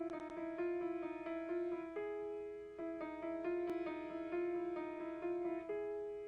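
Solo piano playing a gentle repeating figure of held notes, the introduction to a song before the voice comes in.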